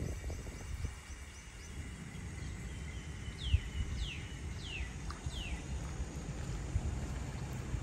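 Birds calling outdoors: a quick run of short, thin high notes, then four whistles that each slide downward, about half a second apart. Low wind rumble on the microphone underneath.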